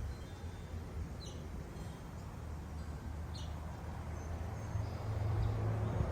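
Small wild birds chirping at backyard feeders: scattered short, high chirps, two of them clearer than the rest. Beneath them runs a steady low rumble that gets louder near the end.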